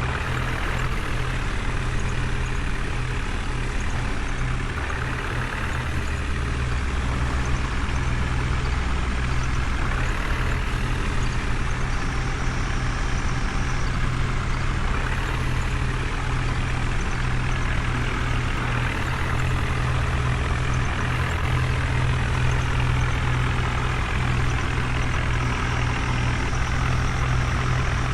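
Heavy diesel engine running steadily with a low, constant hum, from a JCB backhoe loader, tractor or truck at work.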